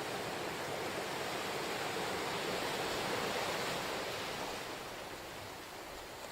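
Ocean surf washing on the shore, a steady rush that swells to a peak about three seconds in and eases off toward the end as a wave breaks and draws back.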